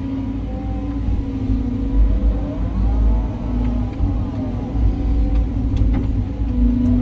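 Caterpillar 323 hydraulic excavator working, its diesel engine running with a steady low rumble and a faint whine that rises and falls.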